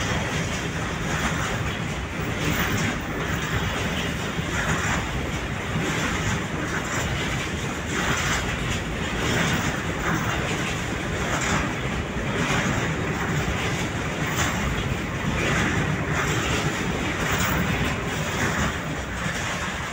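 Container freight train wagons rolling past at close range: a steady rumble of steel wheels on rail with regular clatter as the wagons go by.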